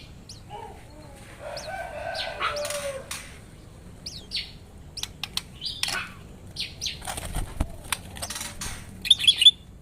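Small songbirds in an aviary fluttering their wings and chirping, with scattered short high calls throughout and a quick burst of loud, high trilling near the end.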